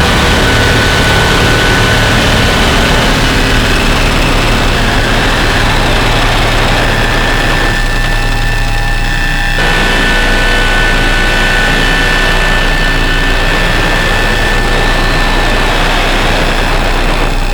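Harsh noise drone from noise synthesizers run through distortion and effects pedals: a dense, loud wall of noise with a low rumble and a few steady high whistling tones. About eight seconds in the middle thins out for a second or so, then the full noise returns.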